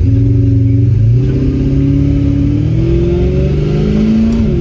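LS V8 in a 1949 Ford single spinner pulling under throttle, its note climbing steadily in pitch, then dropping sharply near the end.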